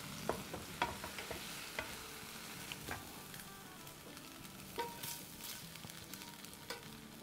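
Chicken pieces sizzling in hot pans as they are moved with metal tongs from a frying pan into simmering gravy, with scattered light clicks of the tongs against the pans.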